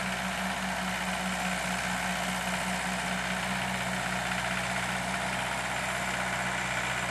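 Engine running steadily: a constant low, even hum with a hiss above it, no change in speed.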